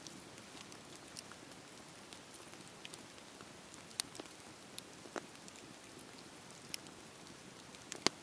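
Wood fire crackling: a quiet steady hiss with sparse sharp pops, the loudest about four seconds in and just before the end.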